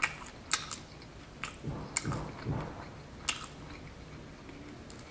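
Close-up chewing of a piece of pizza crust, with about five crisp crunches over the first three and a half seconds.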